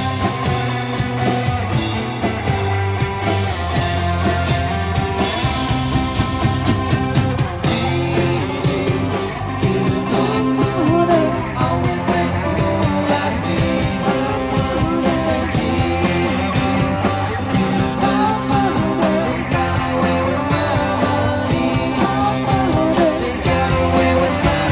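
Live rock band playing a song: guitar over bass with a steady drum beat that comes in firmly about eight seconds in.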